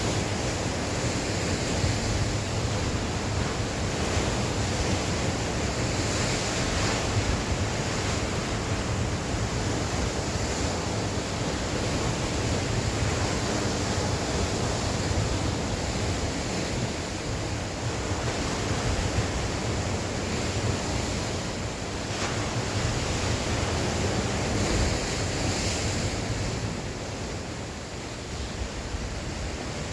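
Sea waves breaking and washing on the shore in a steady surge with gentle swells, with wind buffeting the microphone as a low rumble.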